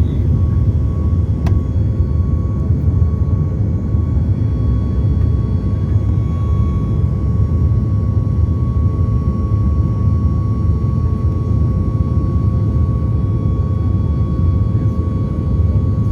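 Boeing 737 MAX 8 cabin noise: a steady deep rumble from its CFM LEAP-1B turbofan engines and the airflow, with a steady hum over it.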